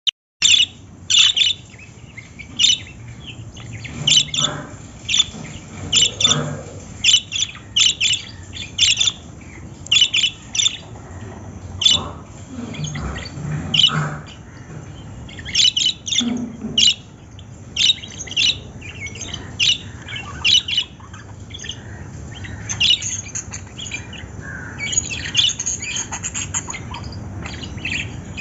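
Small pet parrots chirping and squawking, with short, sharp calls repeating every second or so.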